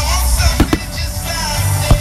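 Music playing loud and steady while aerial fireworks shells burst: two sharp bangs close together a little over half a second in, and a louder single bang near the end.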